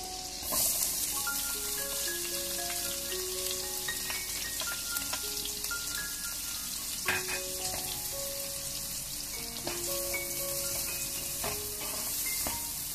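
Butter and oil sizzling in a wok, the sizzle growing louder about half a second in as diced shallots go into the hot fat, with a sharp knock near the middle and spatula stirring near the end. A light mallet-percussion melody plays underneath.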